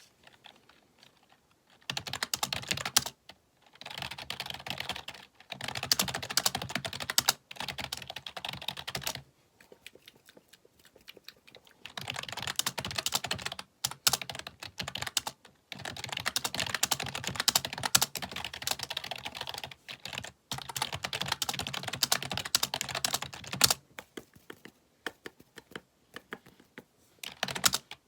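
Fast typing on a computer keyboard: rapid runs of key clicks lasting a few seconds each, broken by short pauses, with a longer pause near the end before the typing resumes.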